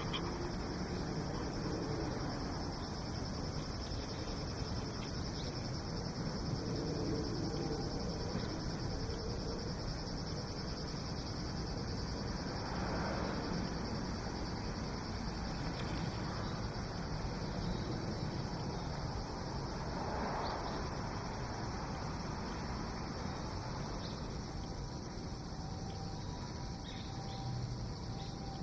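Steady chorus of insects chirring, over a low outdoor rumble, with two brief swells of noise partway through.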